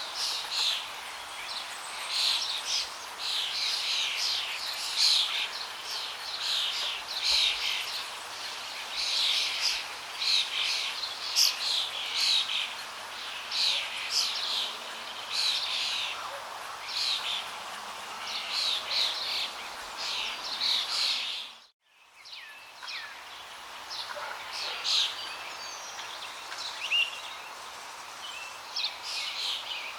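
Many birds chirping and calling in quick succession over a steady rush of flowing water. About two-thirds of the way through, all sound cuts out for a moment, then the water returns with fewer bird calls.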